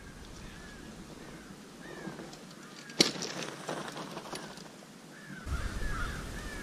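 Small birds chirping in short, curving notes, with a single sharp knock about three seconds in, followed by crackling and a low rumble near the end.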